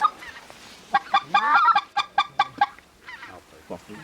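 Goose calling: rapid runs of short clucks and honks in bursts, densest from about a second in, thinning out after the third second.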